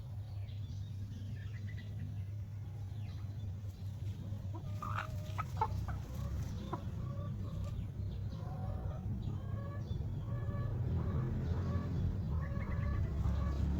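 Chickens clucking in short repeated calls, sparse at first and busier from about five seconds in, with a few louder calls around then. A steady low rumble runs underneath.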